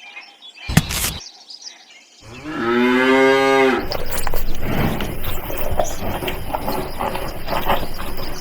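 A cow mooing once, a single drawn-out call of about a second and a half, after a brief knock. After the moo comes a continuous jumble of clattering noise.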